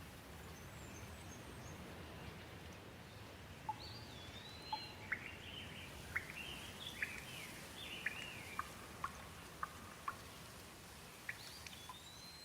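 Gentle rain falling steadily, with a bird singing short chirping phrases from about four seconds in and scattered sharp ticks through the second half.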